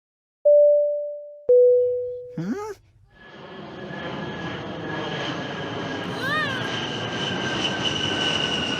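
Cartoon sound effects: two ringing mallet notes and a short sliding squawk, then, about three seconds in, a steady rushing vehicle noise sets in with a high whine that falls slightly in pitch.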